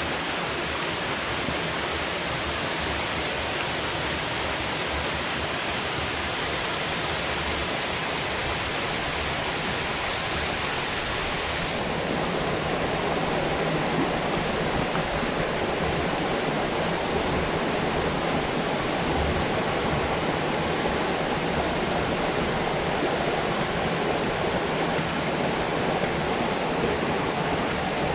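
Steady rush of river water falling and flowing below a dam. About twelve seconds in, the sound changes abruptly to a slightly louder, fuller rush.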